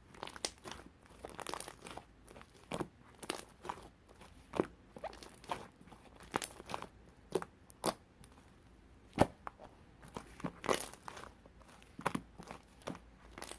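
Irregular crinkling, light tearing and sharp little taps from hands working something crinkly, with the sharpest tap about nine seconds in.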